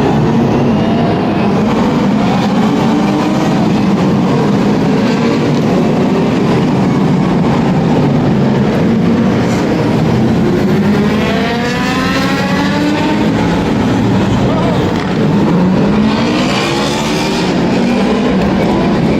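Car engines running amid a loud, steady din, with an engine revving up, rising in pitch, about eleven seconds in and again around sixteen seconds in.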